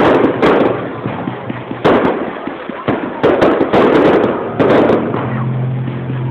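Fireworks going off: about eight sharp bangs in quick succession, each trailing off into a noisy rumble and crackle.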